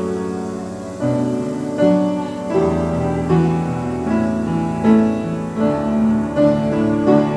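Piano playing a slow passage of sustained notes and chords, a new chord struck about every half second to a second.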